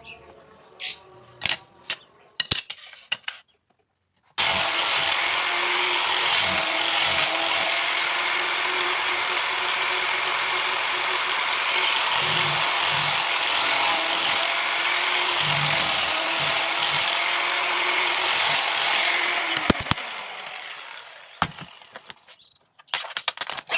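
Electric power tool working bamboo, running steadily for about fifteen seconds after an abrupt start and winding down near the end. A few sharp taps come before it.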